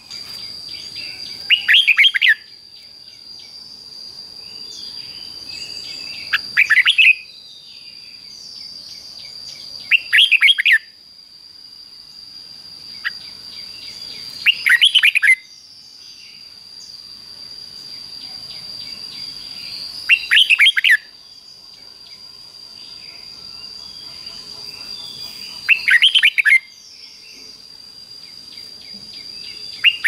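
Red-whiskered bulbul singing its doubled ('เบิ้ล') song: a short, loud phrase of a few quick notes, repeated six times about every four to six seconds. A steady high thin tone and faint chirps run underneath.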